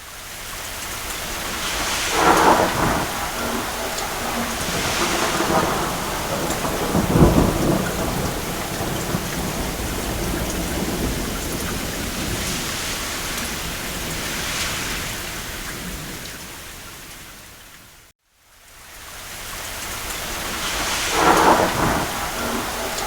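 Steady rain falling on a roof, with several rolls of distant thunder swelling and fading; the deepest rumble comes about seven seconds in. The sound fades out to silence for a moment about eighteen seconds in, then fades back up.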